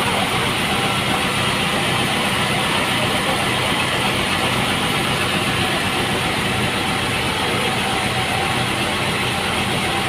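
Sawmill machinery running steadily with an even engine-like hum, no cutting strokes or changes in load.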